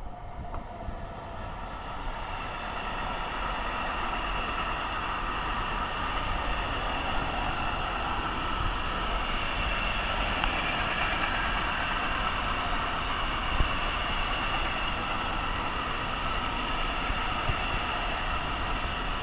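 Train running past, growing louder over the first few seconds and then holding steady: a rumble of wheels on track under a steady high-pitched whine, with a few faint knocks.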